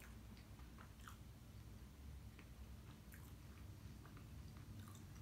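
Faint sounds of a person chewing a mouthful of stuffed pastry, with soft, scattered mouth clicks.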